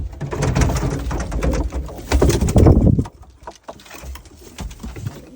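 Startled pigeons fluttering and scrambling in a loft: a dense flurry of wingbeats and scuffs for about three seconds, loudest just before it dies down, then only scattered scuffs.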